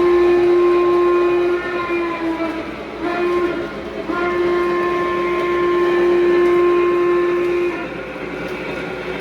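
Lionel Western Maryland 1309 O-scale Mallet model's onboard sound system blowing its steam whistle: a long blast ending about a second and a half in, a few short broken toots, then another long blast that stops near the end. Under it runs the steady running sound of the model locomotive on the track.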